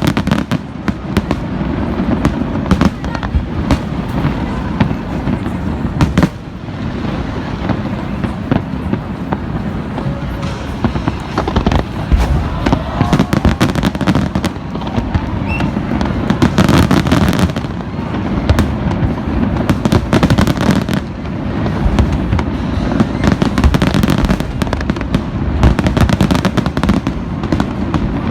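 Aerial fireworks display: a dense, continuous run of shell bursts and crackling, many reports overlapping without a break.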